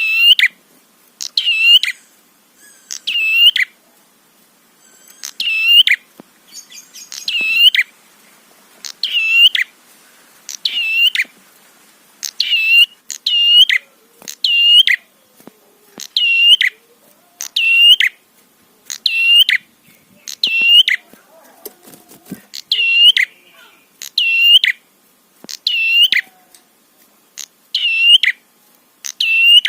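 Prenjak kepala merah calling: loud, sharp, repeated chirps about once a second, with a couple of brief pauses. This is a recorded lure call used to provoke other prenjak into calling.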